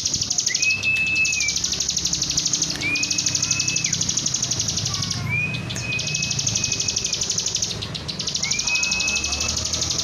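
Caged bar-winged prinia (ciblek) singing: four long whistled notes a couple of seconds apart, each sliding up at its start and then held, some dropping away at the end. Underneath runs a steady, fast, high-pitched pulsing chatter.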